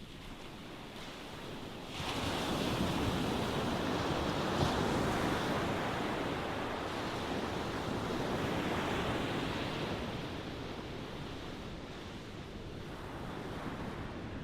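Ocean waves breaking and washing in: a wave surges in sharply about two seconds in, hisses loudly for several seconds, then slowly draws back, with the next swell starting to build near the end.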